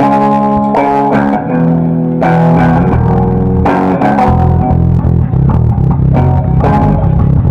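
Live rock band starting a song: loud guitar chords begin suddenly, and a heavy bass line comes in about two and a half seconds in.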